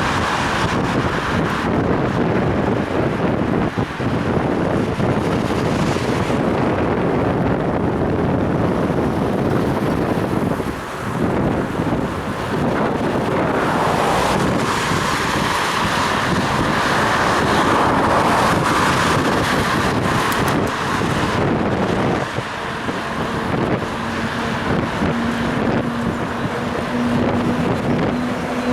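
Wind buffeting the microphone of a head-mounted action camera on a moving bicycle, mixed with continuous road and traffic noise. A steady low hum joins about three-quarters of the way through.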